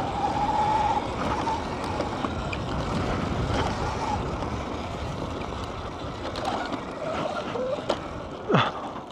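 Sur-Ron electric dirt bike being ridden hard on a dirt track: a thin high electric-motor whine in the first second, then mostly rushing wind on the microphone and tyre noise, with a quick sharp falling whine about eight and a half seconds in.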